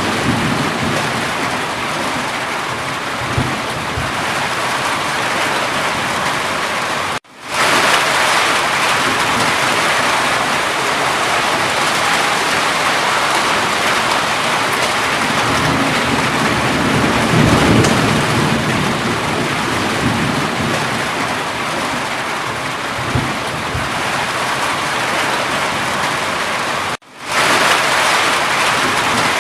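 Steady rain, with a low rumble of distant thunder about halfway through. The sound cuts out abruptly twice, about a quarter of the way in and near the end, and swells straight back.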